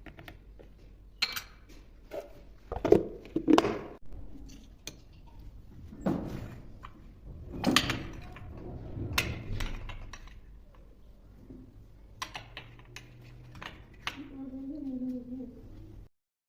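Irregular thunks and clatters of kitchen containers and utensils being handled and set down, the loudest about three and eight seconds in. Near the end a brief wavering voice-like sound is heard, then the sound cuts off suddenly.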